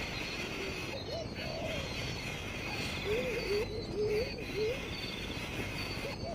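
Animal calls outdoors: a single rising-and-falling call about a second in, then a quick run of about five short rising-and-falling notes about halfway through, over a steady high chorus.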